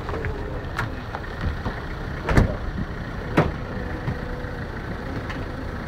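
Vehicle engines idling with a steady low rumble, and several sharp knocks, the loudest about two and a half seconds in and another a second later.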